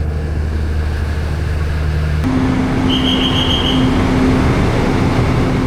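Passenger train running: a steady low rumble and hum that changes abruptly about two seconds in to a rougher noise with a steady mid-pitched tone.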